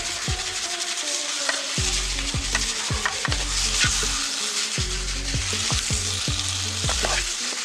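Battered cauliflower pieces sizzling in hot oil in a pan while a metal ladle stirs and tosses them, with a few light ladle clicks against the pan. Background music plays underneath, with repeated falling notes.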